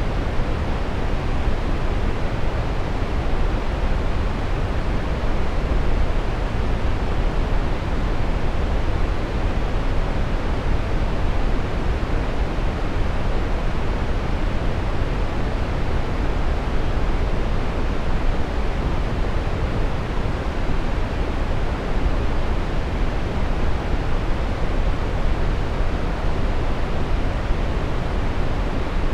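Steady, unchanging brown noise: a deep, even rushing with its weight in the low end and little hiss at the top.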